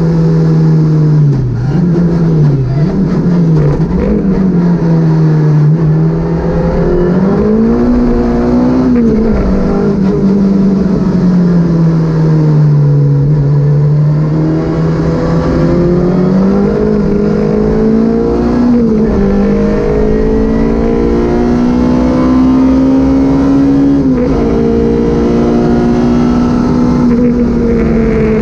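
Citroën Saxo VTS rally car's 1.6-litre 16-valve four-cylinder engine heard onboard at speed, its note rising and falling as it accelerates, shifts gear and lifts off. There are a couple of quick dips in pitch near the start.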